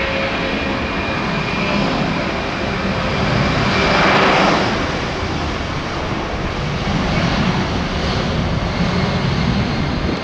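Boeing 757-200 twin-engine jet departing, a steady jet engine noise with faint whining tones that swells to its loudest about four seconds in as the plane passes, then eases slightly.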